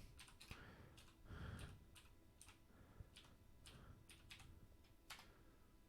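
Faint, irregular computer keyboard typing and clicks.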